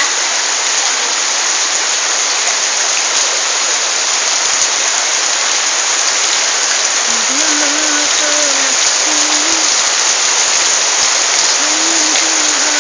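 Rain falling steadily, an even hiss of drops on surfaces. A faint low wavering tone comes and goes in the second half.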